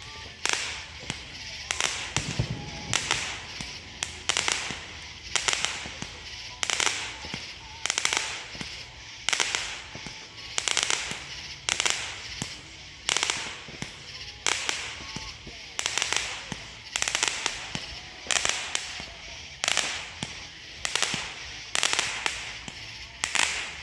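Fireworks crackling in a steady rhythm, a cluster of sharp pops about every three-quarters of a second, kind of catchy.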